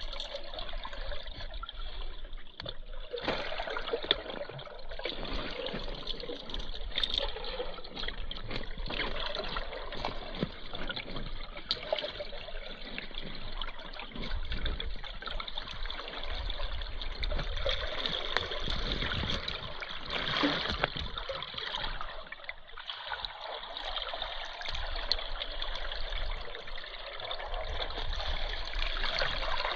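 River water running and trickling close around the microphone, a steady, even rush with small swells and no voices, as from a camera lying in the current.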